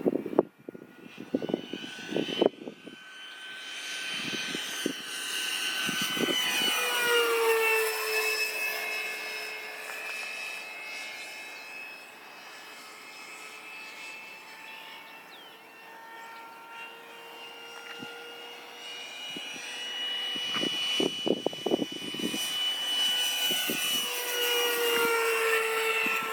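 90 mm electric ducted fan of a Freewing F/A-18 RC jet whining as the plane makes two passes, each swelling louder with the pitch dropping as it goes by. Short gusts of wind buffet the microphone near the start and again partway through.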